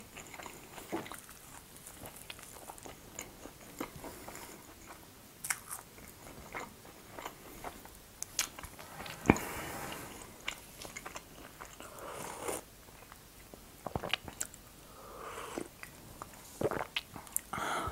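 Close-miked eating of a butter-cream eclair: a bite, then slow chewing with soft wet mouth clicks and smacks. Near the end comes a sip of tea from a mug.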